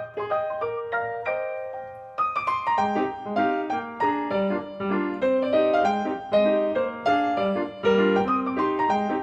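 Piano music: a light melody of single notes, joined about two seconds in by lower accompanying notes.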